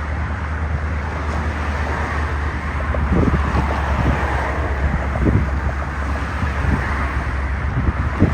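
A steady low engine rumble with wind noise on the microphone and a few soft knocks.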